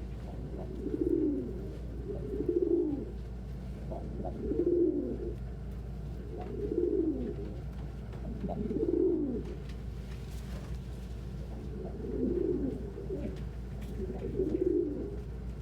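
Domestic pigeons cooing in a loft: low coos repeated about every two seconds, with a steady low hum beneath.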